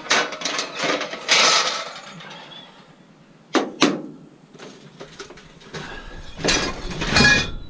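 Scrap metal being sorted by hand, the pieces clattering and clanking as they are handled and dropped onto piles. A jumble of rattling metal fills the first couple of seconds, two sharp knocks come about three and a half seconds in, and more clattering follows near the end.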